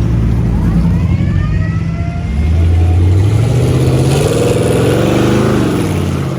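Classic car and truck engines running as they drive slowly past; about two and a half seconds in, one gets louder, and between about four and five and a half seconds an engine is revved up and back down.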